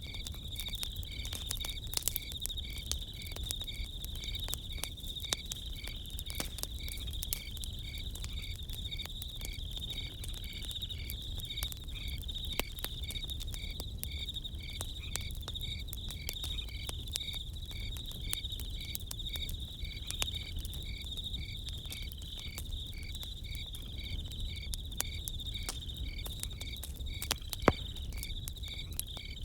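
Crickets chirping steadily in chorus, with one regular chirp repeating a little faster than once a second, over a campfire crackling with scattered small pops and one louder pop near the end.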